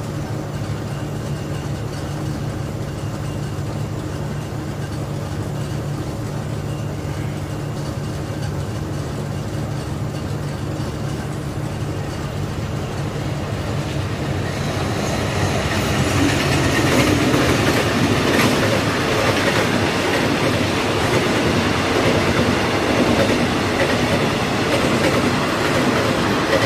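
Passenger train approaching and passing on the Thai railway: a steady low engine hum at first, then from about halfway the train arrives and its wheels clatter loudly over the rail joints until the end.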